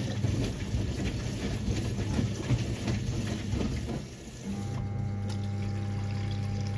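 Siemens WA4600 washing machine with water sloshing and splashing in the drum. About four and a half seconds in, a pump starts with a steady mains hum and water running through it.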